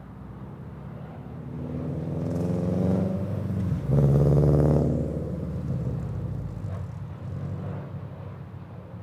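2022 Subaru BRZ's flat-four running through Tomei unequal-length headers, a catless front pipe and a Greddy RS exhaust as the car drives past: the exhaust note builds, is loudest about four seconds in, then fades as the car moves away.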